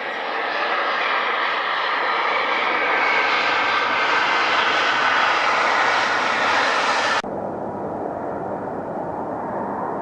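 Airplane engine noise with a whine slowly falling in pitch, growing louder, then cut off abruptly about seven seconds in and replaced by quieter, steadier aircraft engine noise with a single whine.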